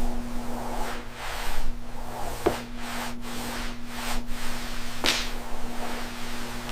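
Pressure washer spraying water in a steady rushing hiss over the machine's steady hum. The spray cuts out briefly several times through the middle, and there are two sharp cracks, one about two and a half seconds in and one about five seconds in.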